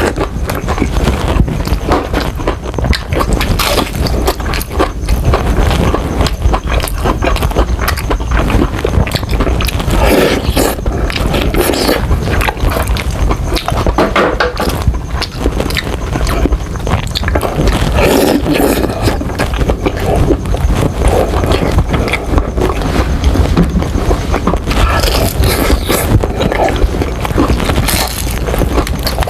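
Close-miked chewing and biting into crispy Jollibee fried chicken: a dense run of crunching and crackling.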